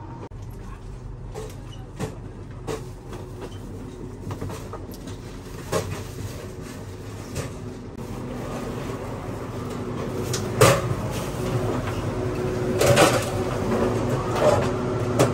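Passenger train running, heard from on board: a steady low rumble with scattered sharp knocks and clunks. It grows louder in the second half, with the heaviest knocks near the end.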